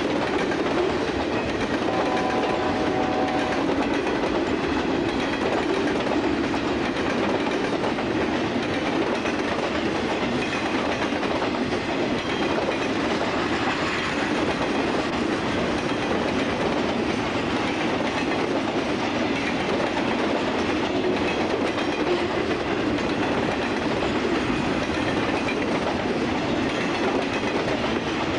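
CSX freight train's cars rolling past steadily on the rails.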